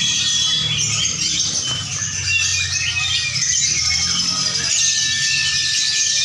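Many caged lovebirds chattering and trilling at once in rapid high chirps and short calls, over a low murmur of crowd voices.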